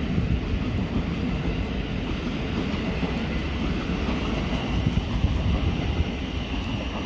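Electric multiple-unit train running through the station: a steady low rumble with a faint high whine building in the second half.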